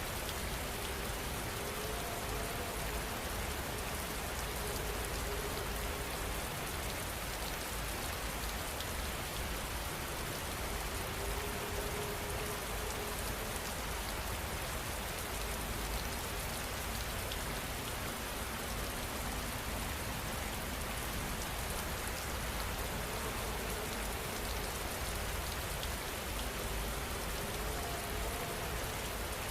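Steady heavy rain falling, an even, unbroken hiss of drops on surfaces.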